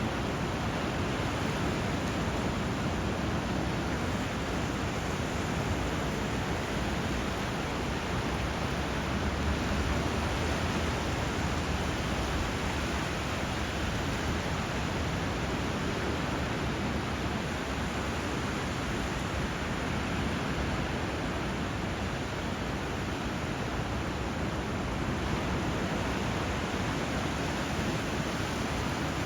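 Steady rush of flowing water where a river meets the sea: an even, unbroken noise that swells slightly about ten seconds in.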